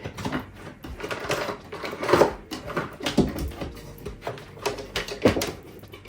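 Irregular plastic clicks and knocks of a power cord and foot-pedal plug being handled and pushed into a sewing machine's sockets, with a few louder knocks about two, three and five seconds in.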